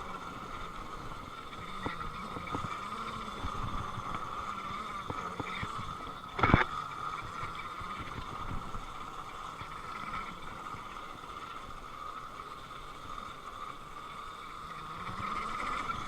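Electric dirt bike running with a steady high motor whine, the pitch of its lower tone rising near the end as the throttle opens. There is one sharp knock about six and a half seconds in.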